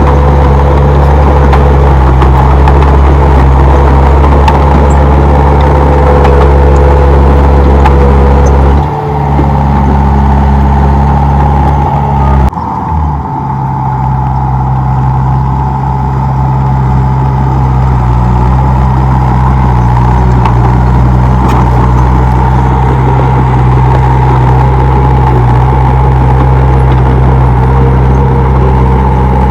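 Komatsu D31P bulldozer's diesel engine running steadily while working, with a brief dip about nine seconds in and a sudden break at about twelve and a half seconds, after which it runs on steadily.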